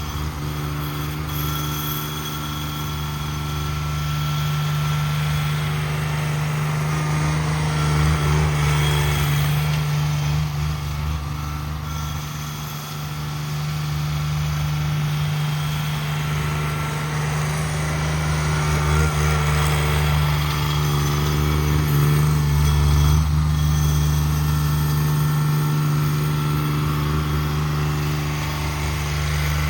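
Cub Cadet 1782 garden tractor engine, an Onan twin-cylinder, running steadily under load, with the level swelling and easing a little a few times.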